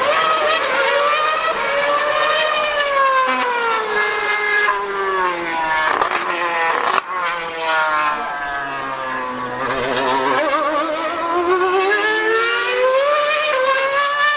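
A 2013 Formula 1 car's high-revving V8 screaming around the circuit. Its pitch climbs through the gears, drops sharply at each upshift, and falls away and rises again as it brakes and accelerates.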